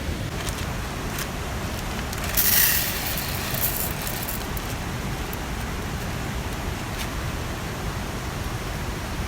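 Steady rushing noise of a mountain stream and rain, with a short hiss about two and a half seconds in and a few faint clicks.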